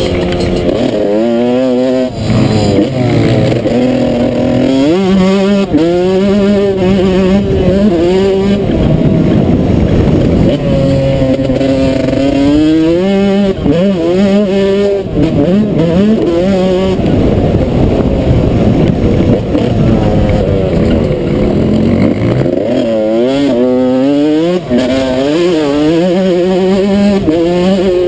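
Motocross bike engine revving hard and shifting up through the gears: its pitch climbs, drops back at each shift and climbs again in several quick runs. Between these runs it settles into stretches of lower, steadier running.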